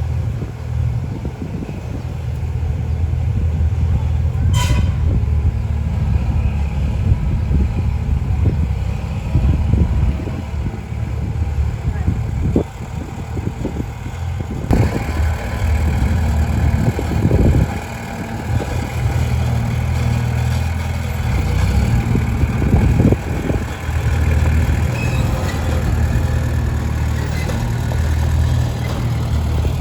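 Heavy diesel earthmoving machinery running under varying load, a low steady engine drone that rises and dips as the machine works sand. A short sharp sound cuts through about four and a half seconds in.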